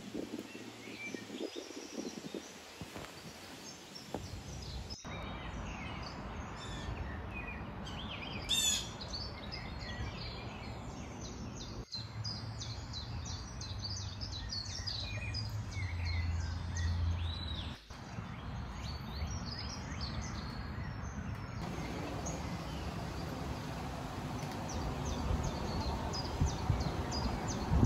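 Several songbirds chirping and calling over a steady outdoor background hiss. One call about eight seconds in is louder than the rest, and the background changes abruptly a few times.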